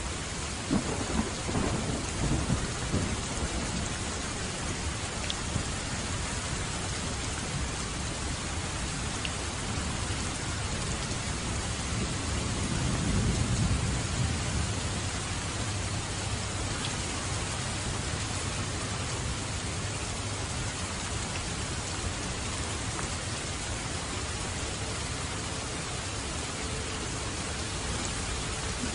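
Steady rain falling with thunder: a sharp rumble about a second in that dies away over a couple of seconds, and a longer low rolling rumble around the middle.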